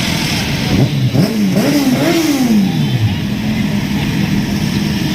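Motorcycle engine revved in three or four quick blips, its pitch rising and falling, then settling to a steady note, with the running of other engines underneath.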